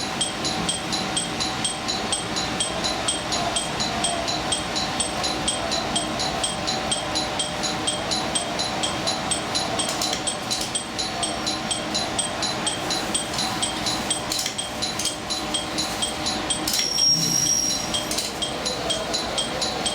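A high electronic chime pinging evenly about two to three times a second over the steady hum of a stopped train. A short higher tone and a low knock come in near the end.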